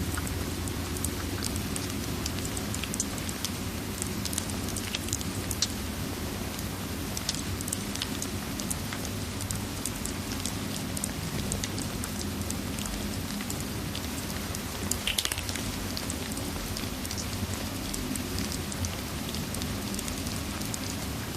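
Steady rain ambience with a low rumble, mixed with the scattered small pops and crackles of a wood fire, a few louder crackles coming together about fifteen seconds in.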